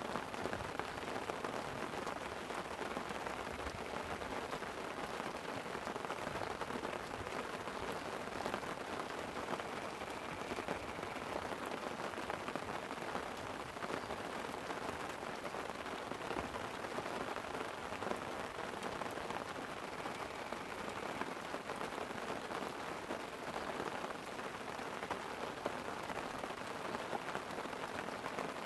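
Light rain falling steadily on a tent: a constant hiss full of small drop taps.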